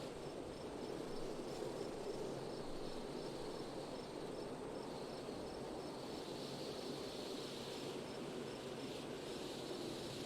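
Steady wind, with a cricket chirping in short regular pulses, about three a second, through the first half. It gives way to a softer, continuous high insect trill.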